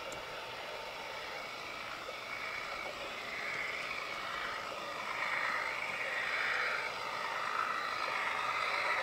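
Garden-railway model train running along outdoor track, a steady running noise that grows gradually louder as it comes closer.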